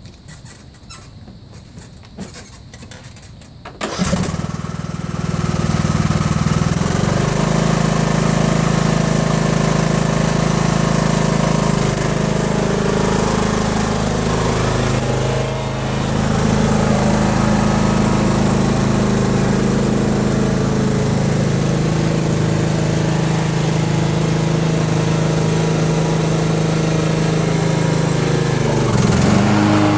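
Riding lawn tractor's engine starting about four seconds in after a few faint clicks, rising to a steady run within a few seconds and running on, with a brief dip about halfway through and a shift in pitch near the end.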